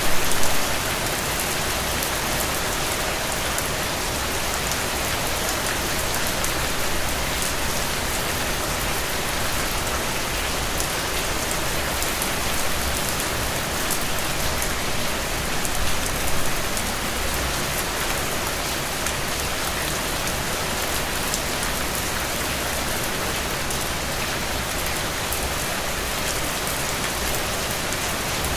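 Heavy, steady rain falling on soaked ground and puddles, a dense even hiss with the patter of individual drops. A couple of brief louder swells, right at the start and about 16 seconds in.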